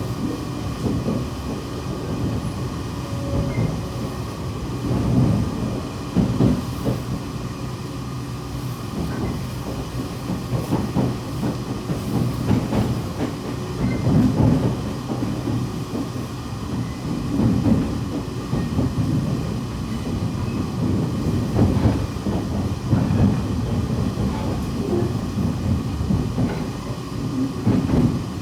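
Running noise heard inside a JR West 117-series electric train: a steady low rumble of wheels on rail, with uneven louder swells and knocks.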